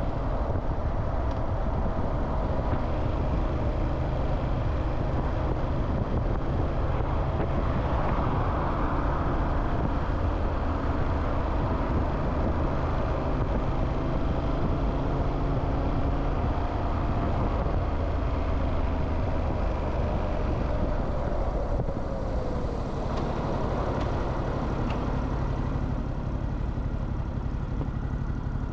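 Motorcycle engine running under road and wind noise while riding through city traffic. About three-quarters of the way in, one engine tone falls in pitch and the sound gets slightly quieter.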